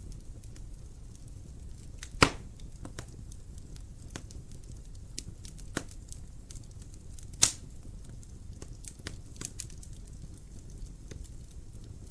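Wood fire in a fireplace crackling: scattered small ticks over a low rumble of the flames, with two loud sharp pops about two seconds in and again at about seven and a half seconds, and a smaller one in between.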